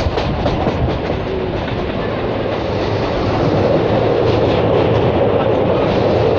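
Electric local train running at speed, heard from inside the coach: a steady rumble with wheels clattering over the rail joints. The rumble grows louder about three and a half seconds in as the train rolls onto a steel truss bridge.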